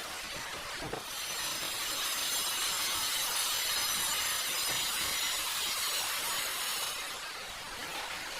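A power tool running steadily with a high, hissing grind. It comes up about a second in and eases off near seven seconds.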